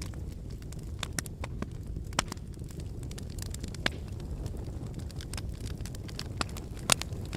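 Fire crackling in a brick fireplace: a steady low rumble of flames with frequent sharp pops and snaps at irregular moments, a loud pop about two seconds in and the loudest one near the end.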